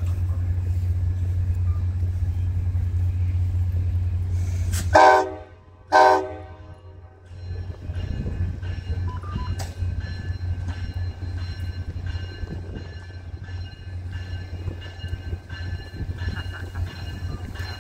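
Steady low rumble of a diesel passenger train, broken by two short, loud train-horn blasts about five and six seconds in. Afterwards a quieter rumble with faint steady high-pitched tones continues as a train approaches the platform.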